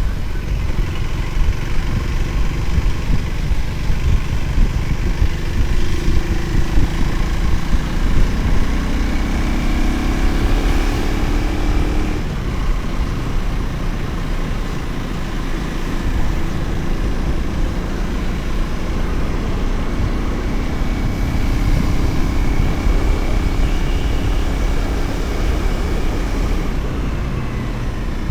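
Motorcycle engine running on the move, with heavy low wind rumble on the microphone. The engine pitch climbs as the bike accelerates about a third of the way in, and rises again briefly later.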